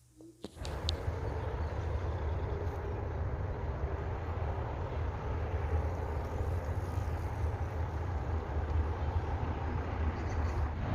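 Steady rushing, rumbling noise that starts about half a second in: wind and motion noise on the microphone of a camera carried on a moving bicycle.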